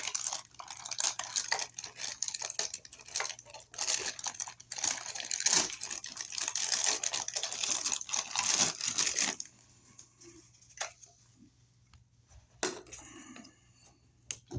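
Crinkling and rustling of plastic while a plastic wire mold box is handled, stopping about nine and a half seconds in, followed by a few light clicks and knocks.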